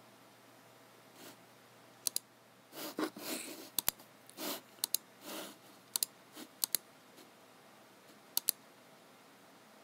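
Computer mouse clicking, about six quick clicks each made of a press and a release, with short soft sliding sounds of the mouse moving across the desk in between.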